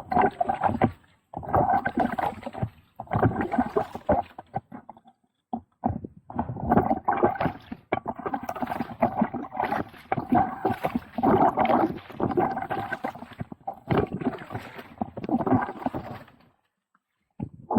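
Kayak paddle strokes splashing and swishing water, in repeated bursts about a second or two long with short quiet gaps between, and a longer pause near the end.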